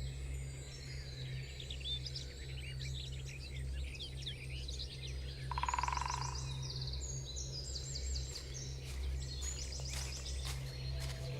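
Woodland ambience: several birds chirping and singing in short, rising and falling calls over a steady low rumble, with one louder rapid trill about six seconds in and a few sharp clicks near the end.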